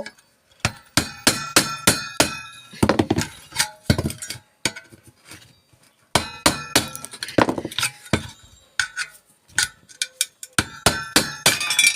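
A hammer repeatedly striking a steel chisel driven into the tack-welded joints of a microwave part, to split the welds apart. The sharp metallic blows come in bursts with short pauses between them, each with a brief ring.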